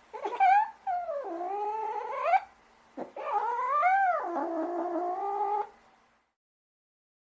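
A cat meowing: one short meow, then two long, drawn-out meows whose pitch swoops up and down.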